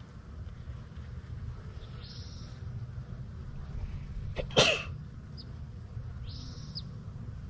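Birds calling outdoors in short whistles and chirps a few times, over a steady low rumble; about halfway through, one loud, sudden, short noise stands out above everything else.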